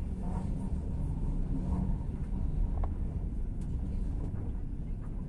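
Passenger train running, heard from inside the carriage as a steady low rumble.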